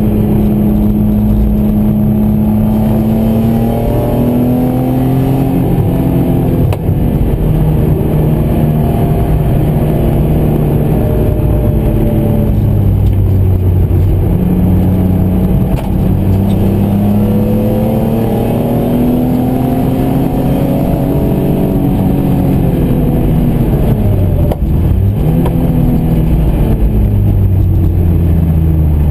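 BMW M3 engine driven hard on track, heard from inside the cabin: revs climb and fall through the gears, with brief dips at the gear changes and a drop under braking about 22 to 25 seconds in.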